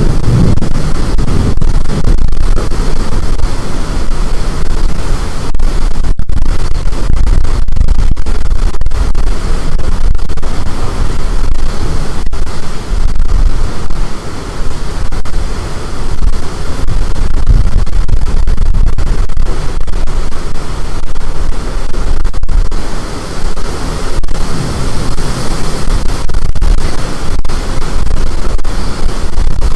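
Strong storm wind blasting the microphone: a loud, unbroken rush of wind noise, heaviest in the low rumble, with brief dips.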